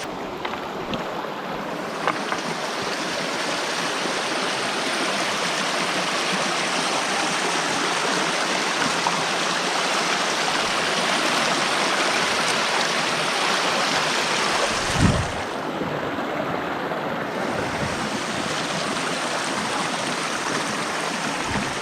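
Small creek rushing steadily over rocks, an even wash of water noise. About two-thirds of the way through there is a single brief dull thump.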